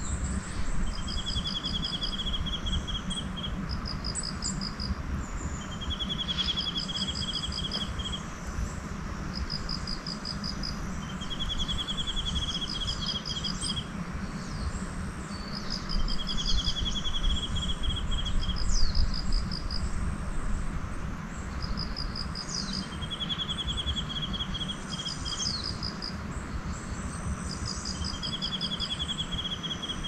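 Wild songbird repeating the same song, a few short high notes and then a lower even trill, about every five seconds, with other birds chirping now and then over a steady low rumble of outdoor background noise.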